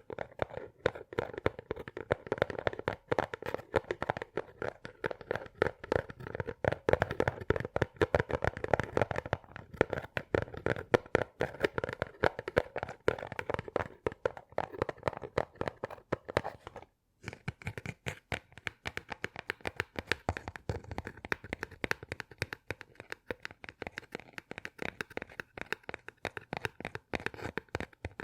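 Close-miked ASMR trigger sounds made by hand: a dense, rapid run of small clicks and scratchy crackles. There is a brief dropout about 17 seconds in, after which the sound turns brighter and thinner.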